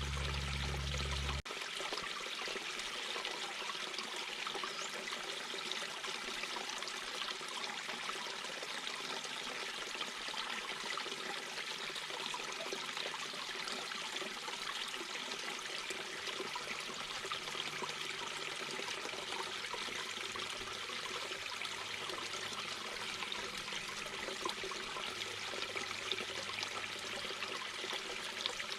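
Mountain babbling brook: a steady rush and trickle of flowing water. A low rumble underneath cuts off abruptly about a second and a half in.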